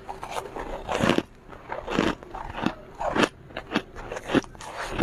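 Close-miked biting and chewing of soft, powdery freezer frost, with crisp crunches repeating at an uneven pace.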